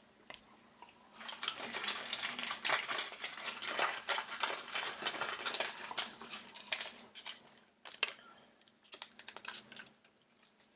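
Crinkling and rustling of plastic card sleeves or pack wrapper as trading cards are handled. The handling is dense for several seconds, then thins to scattered crackles and clicks.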